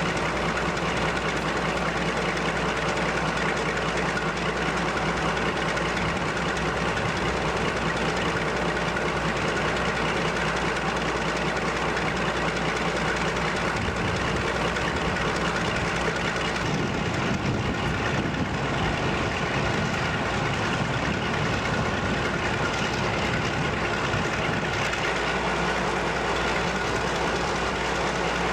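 Diesel-hydraulic locomotive running steadily, a continuous heavy engine sound, with a deeper rumble for several seconds in the middle.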